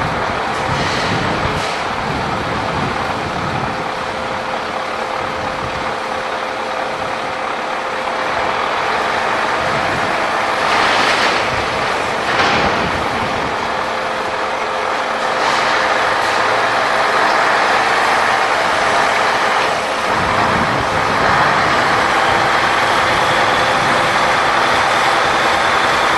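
Scania V8 truck engine running steadily, with a few short hisses of air from the air system, two close together about halfway through; the engine gets a little louder in the second half.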